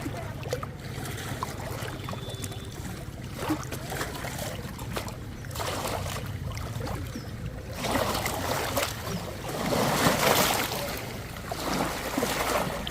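Moving water washing and splashing in surges that swell several times in the second half, over a steady low rumble.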